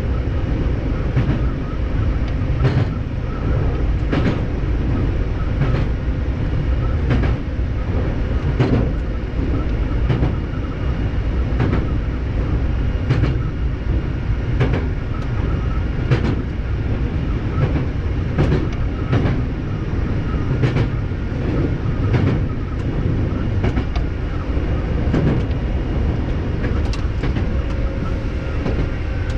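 Hankyu 7000 series electric train running at speed, heard from aboard: a steady rumble with sharp wheel clicks over the rail joints, about one a second.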